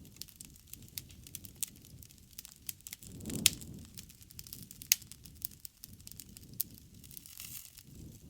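Wood campfire crackling, with scattered sharp pops; two louder snaps come about three and a half and five seconds in, the first with a brief low rush.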